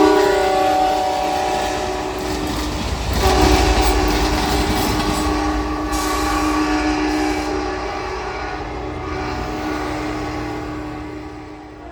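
Locomotive horn sounding a multi-tone chord over the rumble of a passing train. The horn breaks off about three seconds in, then sounds again at a steady lower pitch and fades near the end as the train moves away.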